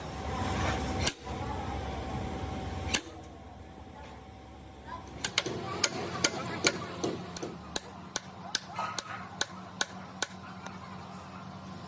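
Workshop sounds of hand work on a hydraulic breaker: a low rumble with a couple of sharp knocks for the first three seconds, then from about five seconds in a run of sharp, irregular metal taps and clinks.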